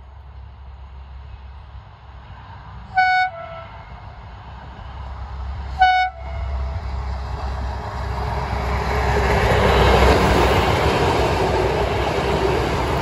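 Diesel railcar sounding two short two-tone horn blasts about three seconds apart, each stepping from a higher note to a lower one. Then its diesel engine and wheels on the rails grow louder as it approaches and passes close by, loudest about ten seconds in.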